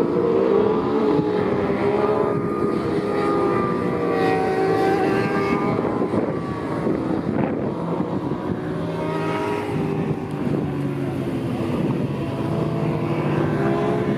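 A pack of small-displacement racing motorcycles, Kawasaki Ninja ZX-4R inline-fours among them, running hard at high revs as the race gets under way. Many engine notes overlap, their pitches wavering without stopping.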